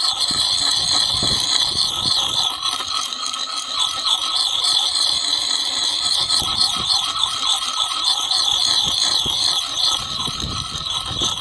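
A hatchet's steel edge being ground in circles on a concrete stepping slab, giving a continuous loud scraping with a steady high-pitched ring that wavers as the strokes go round. This is the edge being sharpened to a convex grind, and the steel is shed as metal filings on the concrete.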